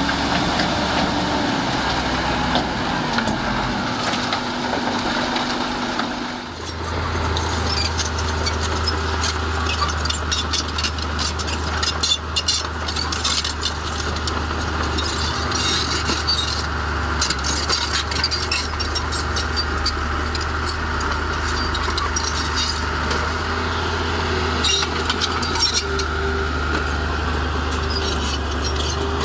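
Heavy diesel earth-moving machinery running, with stone and soil clattering and grinding against each other as a dense crackle. About six seconds in, the engine sound changes to a deeper, steady drone.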